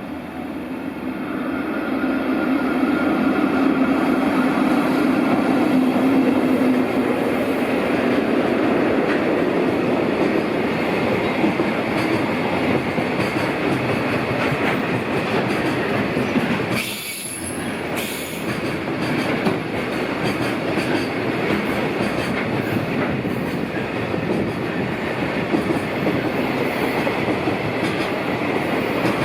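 Freight train hauled by an EF65 electric locomotive passing at speed. The rolling rumble builds over the first few seconds, then goes on steadily with the clickety-clack of wagon wheels over rail joints as the long line of freight wagons rolls by.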